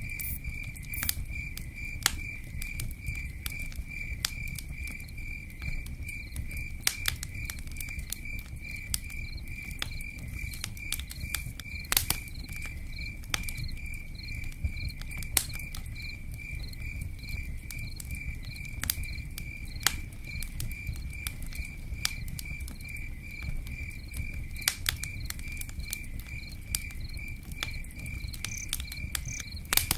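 A cricket chirping in a fast, even rhythm that never stops, over a campfire crackling with sharp pops every second or so. Underneath is a constant low rumble and patter of rain on a tent roof.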